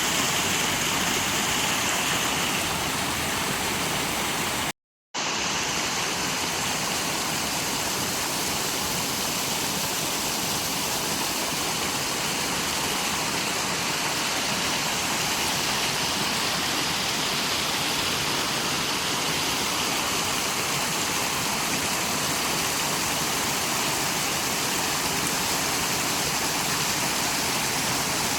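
Rushing water running steadily, with no change in pitch or rhythm. It cuts to silence for about half a second around five seconds in.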